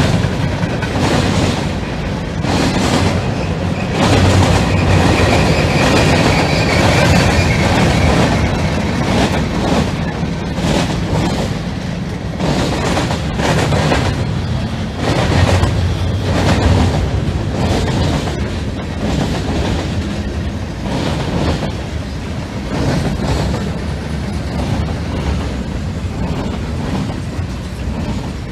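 Freight train rolling past, its cars clattering over the rail joints in a continuous clickety-clack over a low rumble, with a faint high wheel squeal a few seconds in.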